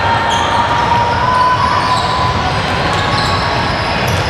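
Basketball game noise echoing in a gym: a steady din of crowd and players, with a basketball being bounced on the court.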